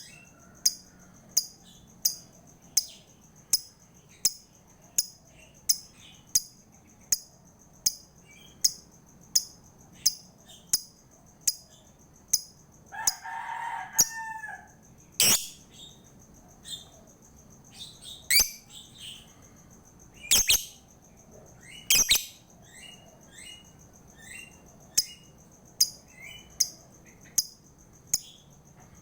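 Lovebird calling: sharp, shrill chirps repeated at an even pace, about three every two seconds, then several louder, longer shrieks from about fifteen seconds in, followed by looser chirping. A lower, drawn-out call from another bird sounds about thirteen seconds in.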